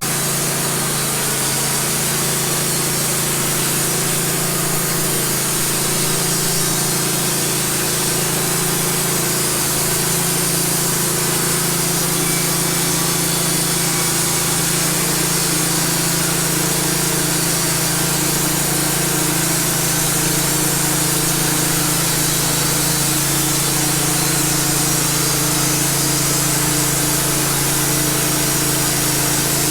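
Wood-Mizer LT15 portable bandsaw mill running steadily under load as its blade saws through a cedar log, starting suddenly and holding an even level.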